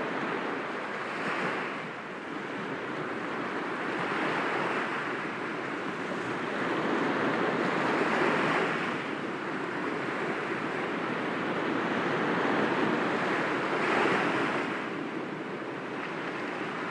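Sea waves breaking gently against rocks: a continuous wash of surf that swells four times as waves come in.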